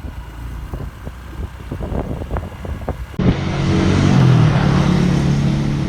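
Motor vehicle engine running with road and wind noise, cutting in abruptly about three seconds in, after a stretch of quieter low rumble with scattered knocks.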